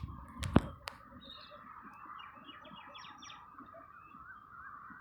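Birds chirping, with a quick run of short chirps about two and a half to three and a half seconds in over a steady high background of calls. A sharp click comes a little after half a second in.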